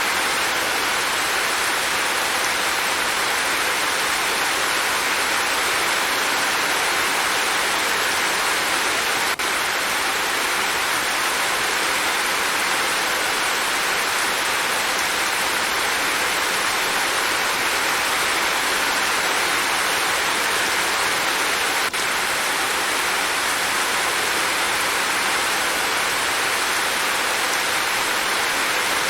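Steady rain, a dense even hiss with no single drops standing out. Two faint brief clicks come at about 9 and 22 seconds in.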